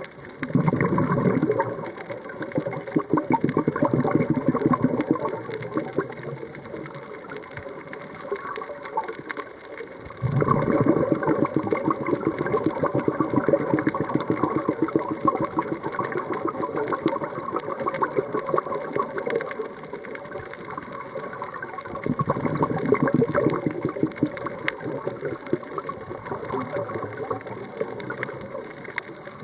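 Scuba diver's exhaled bubbles rushing and crackling up from the regulator, heard underwater, in three long bursts with quieter hiss between them.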